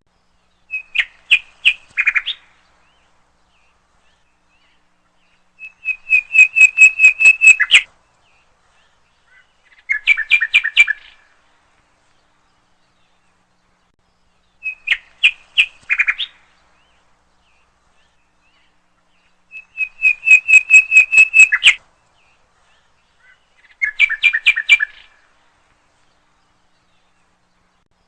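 A songbird singing short phrases of rapid, evenly spaced chirps, each phrase lasting one to two seconds with a few seconds of silence between. The same set of three phrases comes round twice.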